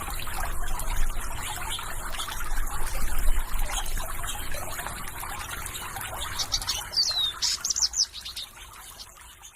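Water flowing and trickling steadily while birds chirp. A cluster of quick high chirps and a falling whistle come about seven seconds in, then the sound fades down near the end.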